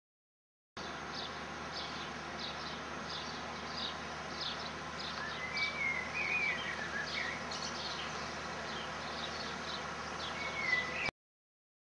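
Birds calling: repeated short high chirps, with a warbling call in the middle and again briefly near the end, over steady background noise.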